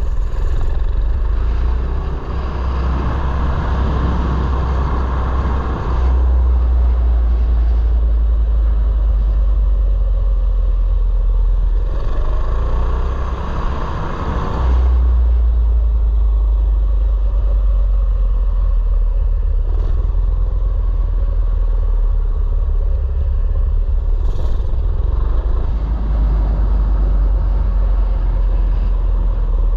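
Mini bike engine running under way, with heavy wind rumble on the helmet-mounted camera's microphone. The engine and road noise swell twice in the first half.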